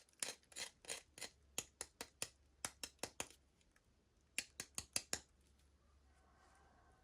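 Scissors snipping through packaging in a run of quick cuts, about three a second. After a short pause comes a last quick run of five snips.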